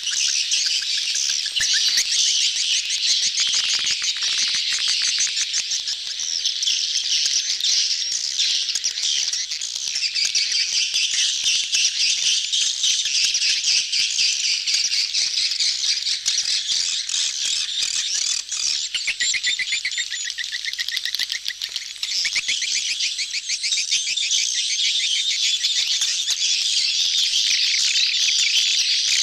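A dense crowd of edible-nest swiftlets twittering and chirping all at once, a continuous mass of rapid clicking chirps. This is the colony's mating chorus, the lure call played at swiftlet houses to draw the birds in.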